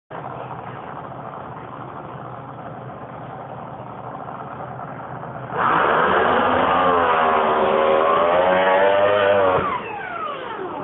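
Top Alcohol hydroplane drag boat's supercharged alcohol-burning V8 making a pass. The engine comes in suddenly and loud about five and a half seconds in and runs hard for about four seconds, its pitch wavering. It then cuts off abruptly, leaving falling whines as it winds down.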